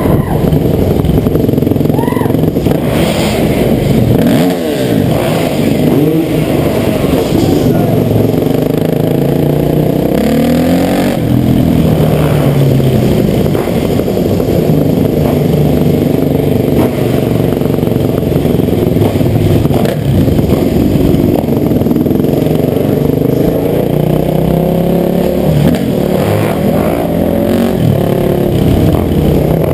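Honda CR500's single-cylinder two-stroke dirt-bike engine revving hard, its pitch rising and falling several times as the throttle is worked.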